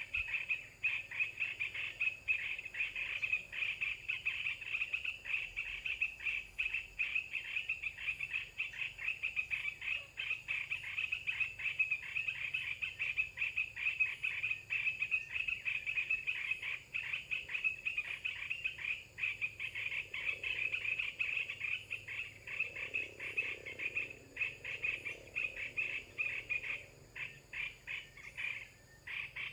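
A continuous chorus of calling animals: a fast, even, high-pitched chirring pulse that runs on without a break, thinning out slightly near the end.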